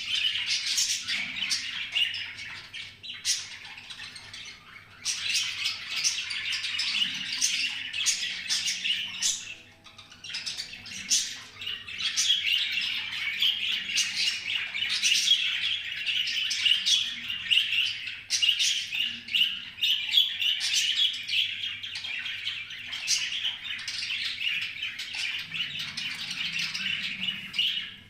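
Small birds chirping and chattering almost without pause in a dense, high-pitched stream of short notes, with a brief lull about ten seconds in.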